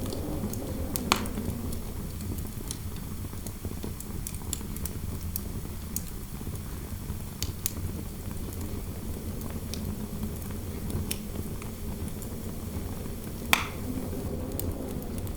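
Fireplace crackling with scattered sharp pops, two louder ones about a second in and near the end, over a steady low rush of wind.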